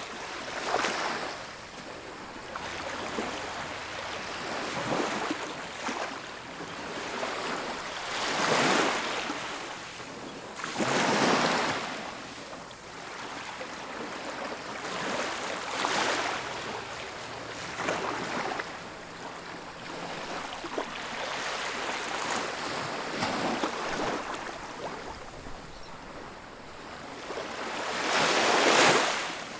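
Ocean waves breaking and washing on a beach, an unbroken hiss of surf rising into louder crashes every few seconds, the loudest near the end.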